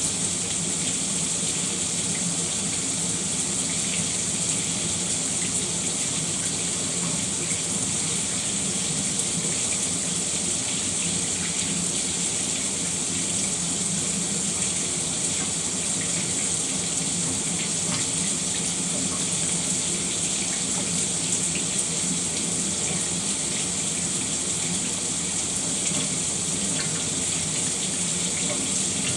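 Shower water running steadily, a constant spray and splash of falling water.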